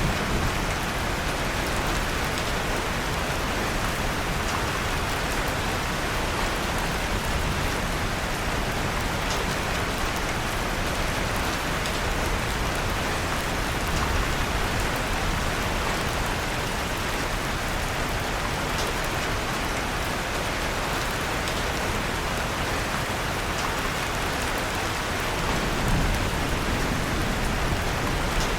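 Steady rain falling, with a few faint crackles from a fireplace fire mixed in.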